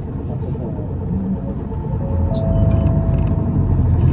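Isuzu Erga city bus's diesel engine and drivetrain heard from inside the cabin, growing louder about two seconds in as it pulls harder, with a thin steady whine for about a second. This bus is known for an abnormal running noise.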